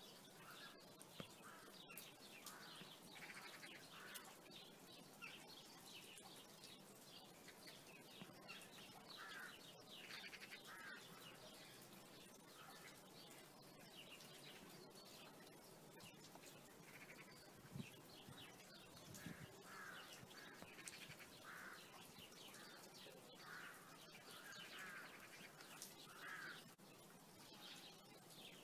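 Faint birds chirping: many short calls, scattered and irregular, over a low background hiss.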